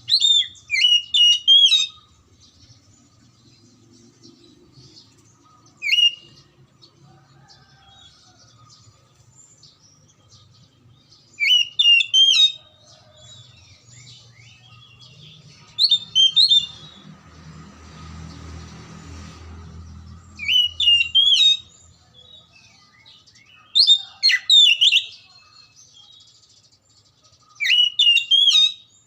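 Oriental magpie-robin singing: short bursts of loud, high whistled notes repeated every four to five seconds, about seven phrases in all. A faint rushing noise with a low hum rises and fades in the middle, between two phrases.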